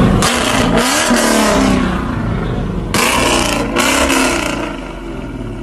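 A car engine revving, its pitch rising and falling, with loud rushing noise surging in about a quarter of a second in and again about three seconds in.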